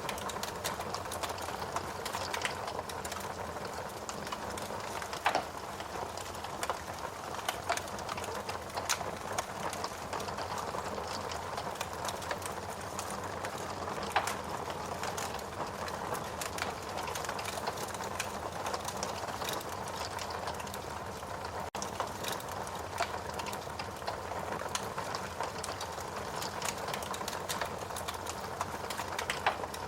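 Fireplace fire burning, with a steady rushing hiss and frequent irregular crackles and pops.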